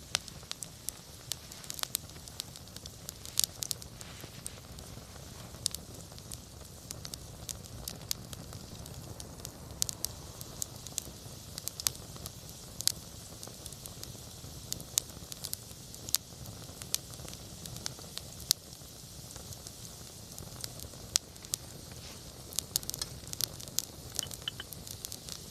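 Wood campfire burning, crackling with many irregular sharp pops and snaps over a low, steady rumble of the flames.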